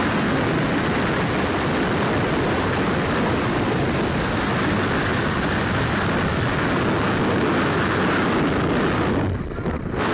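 Steady rush of a propeller jump plane's engine mixed with wind noise, dipping briefly near the end.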